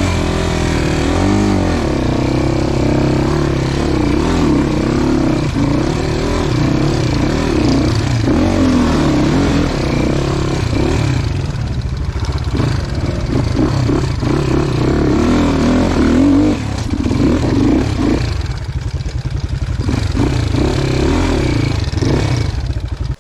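Enduro dirt bike engine revving up and down repeatedly, the revs rising and falling every second or so, more uneven near the end, as the bike is worked through rough terrain.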